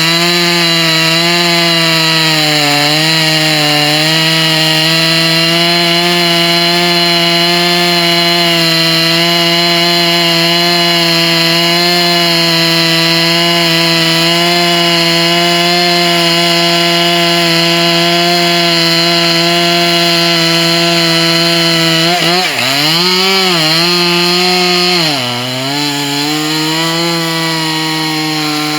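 Husqvarna 268 two-stroke chainsaw running at full throttle in a cut through a large tree trunk, its engine note holding steady. In the last several seconds the revs dip and recover several times as the saw loads up in the cut.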